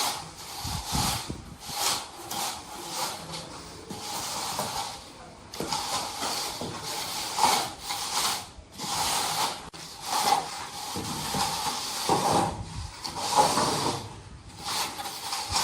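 Irregular scraping and rubbing strokes from floor-tiling work, over a faint steady hum.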